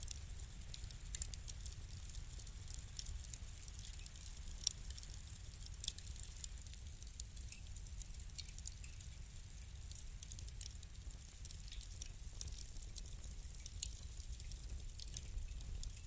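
Wood fire burning in a fireplace: many small, irregular crackles and pops over a low, steady rumble of the flames, with one sharper pop about five seconds in.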